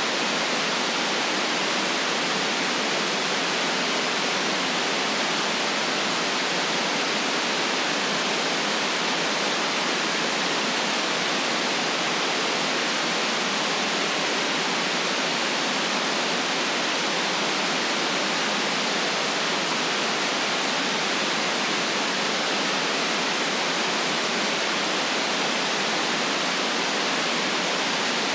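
Steady, unchanging synthetic white noise: an even hiss from low-mid up to high frequencies, cut off sharply below about 150 Hz and above about 9 kHz.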